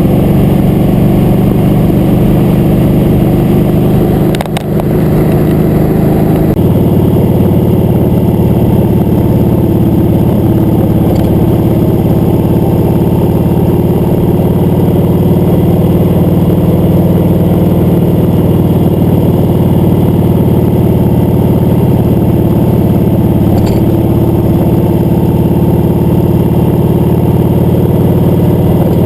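Motorcycle engine running steadily under way, with a short dip in loudness about four seconds in.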